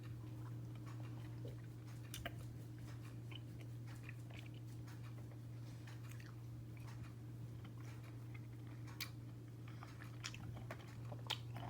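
Faint mouth sounds of a person eating a Dairy Queen Frosted Animal Cookie Blizzard, chewing soft-serve with bits of animal cookie, with scattered small clicks and smacks. A steady low hum runs underneath.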